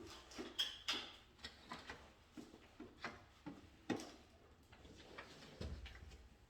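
Light, irregular clicks and taps of hand tools and small parts being handled during electrical wiring work, with a few sharper clicks and a brief low rumble near the end.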